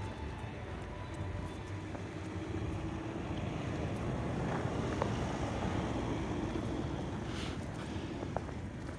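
A steady low rumble of outdoor background noise, growing a little louder midway, with a few faint clicks.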